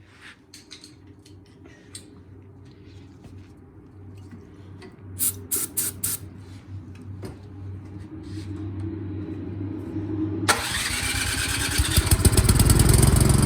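A few short hisses of starting fluid being sprayed, then about ten seconds in the Troy-Bilt snowblower's engine suddenly fires and runs loudly. It fires on the starting fluid, which shows the fault lies in the carburetor.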